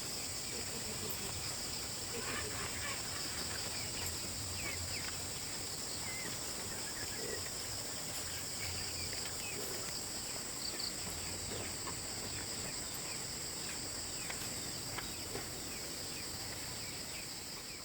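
Steady high-pitched chorus of insects, with scattered short bird chirps over it.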